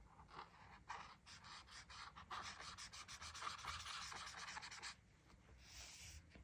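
Coloring on a coloring-book page: a drawing tool rubs across the paper in quick back-and-forth strokes for about four and a half seconds, stops, then makes one softer stroke near the end.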